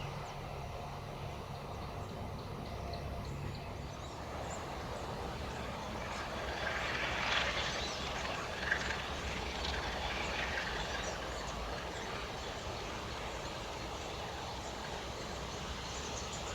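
A train running on the line: a steady low rumble with a hiss of wheel and rail noise that swells around the middle. There is one sharp click just before the middle.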